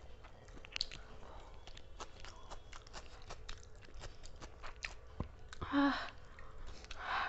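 Fast, close chewing and crunching of food, with many small sharp clicks and smacks of the mouth. A short voiced sound from the eater comes about six seconds in and again near the end.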